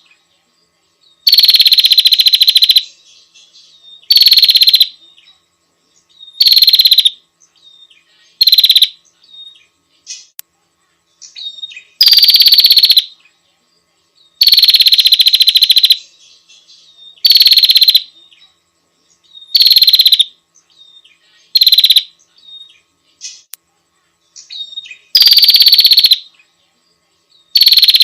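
Female prenjak (prinia) calling to attract a male: a series of about a dozen loud, buzzy trilled calls, roughly one every two seconds. Each call opens with a quick downward slur, and softer short chirps come between them.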